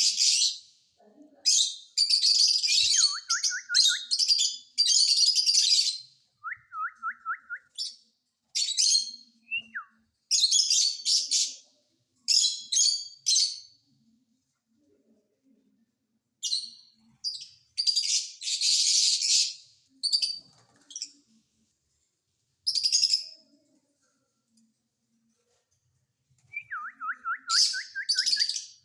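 Rose-ringed parakeet giving repeated harsh, shrill screeches in short bouts with brief pauses between them. A few quick runs of falling chirps come between the screeches, two near the start and one near the end.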